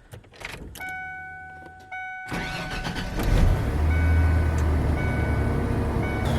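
Ford F-150's 300 cubic inch (4.9 L) straight-six turns over briefly on the starter and fires about three and a half seconds in, then settles into a steady idle: the truck starts on a fully charged battery. A steady dash warning chime beeps before the cranking and again over the idle.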